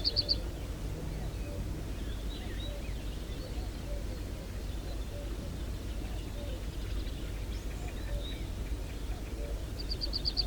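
A small songbird singing a fast, even trill of repeated high notes, heard once as it ends just after the start and again from near the end, with faint scattered bird chirps between, over a steady low rumble.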